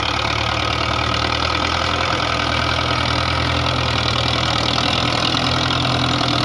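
Belarus 510 tractor's diesel engine idling steadily.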